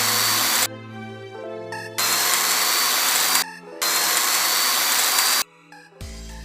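A small electric power tool running in three bursts of a second or so each, a loud hiss with a thin high whine that rises slightly, cut in between with background music.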